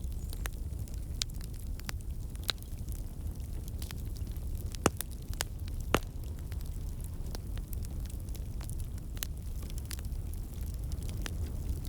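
Fire crackling in a fireplace: irregular sharp pops and snaps over a low, steady rumble, with the two loudest pops about five and six seconds in.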